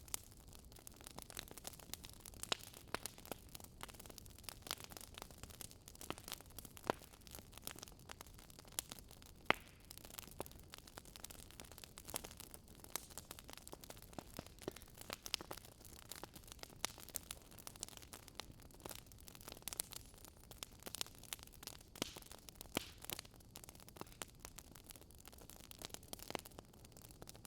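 Campfire of burning wood crackling: irregular sharp pops and snaps, a few louder than the rest, over a faint steady hiss.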